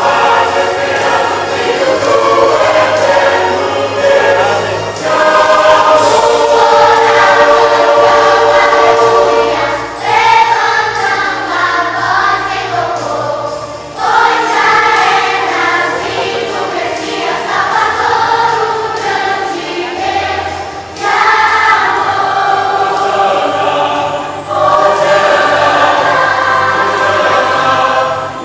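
Church choir singing a Christmas song in phrases, with an instrumental accompaniment.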